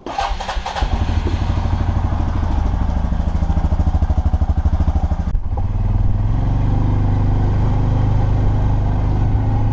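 ATV (four-wheeler) engine running, loud and pulsing, with a brief drop about five seconds in, after which it runs steadier at a slightly higher pitch.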